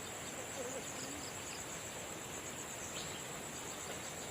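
Insect chorus: a steady, finely pulsing high trill, with a few faint low calls underneath.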